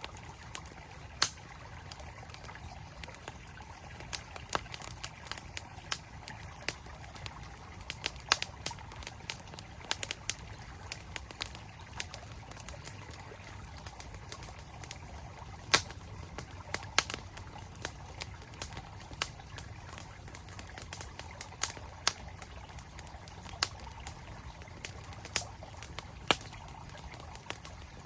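Campfire crackling with sharp, irregular pops and snaps, the loudest sounds, over the steady rush of a flowing mountain stream.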